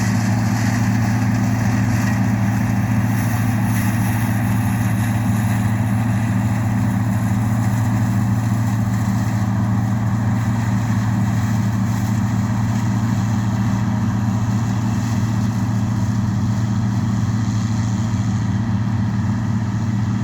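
Farm harvest machinery running at a steady speed, its engine giving a constant low hum that holds unchanged throughout.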